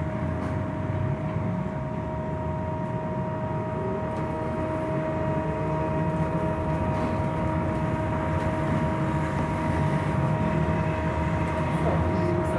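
Scania trolleybus on the move, heard from inside: a low rumble of running gear and road with a steady electric whine of two held tones, growing slightly louder towards the end.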